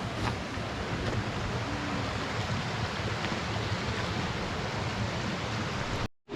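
Steady rush of water from a mountain stream, an even noise with no distinct events, breaking off for a moment near the end.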